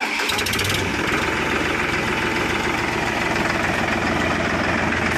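Powertrac tractor's diesel engine idling steadily with an even, fast firing rhythm; a light rapid ticking rides over it in the first second.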